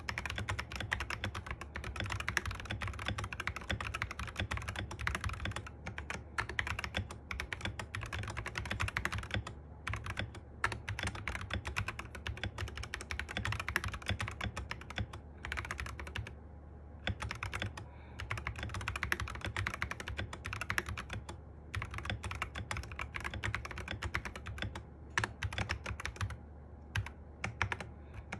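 Typing sound test on a Sky87 mechanical keyboard fitted with MMD Panda tactile switches and cherry-profile keycaps: a continuous run of quick keystrokes, broken by a few short pauses.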